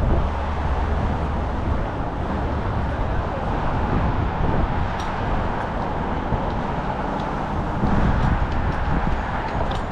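City street traffic: a steady rumble of passing cars and road noise.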